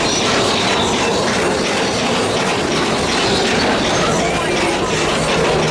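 Mine-train ride cars rolling on narrow-gauge track, a steady loud rumble of wheels with clatter and squeals from the rails.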